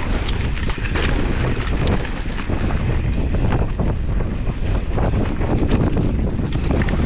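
Strong wind buffeting the microphone: a loud, gusting low rumble with scattered light clicks.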